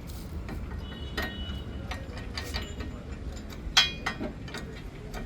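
Scattered metallic clinks and taps from steel tools and bumper parts being handled. About four seconds in there is one sharp, ringing metal strike.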